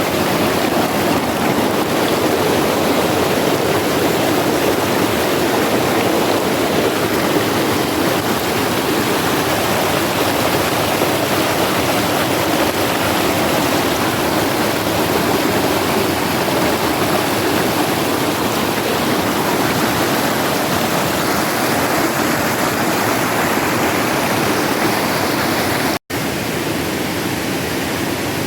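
Steady rush of flowing river water close to the microphone. It cuts out for an instant near the end, then carries on a little quieter.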